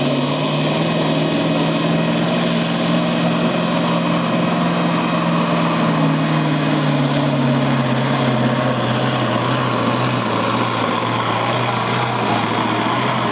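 Farm-stock pulling tractor's diesel engine running flat out as it pulls the brake sled, a loud steady drone whose pitch sinks slowly over the second half.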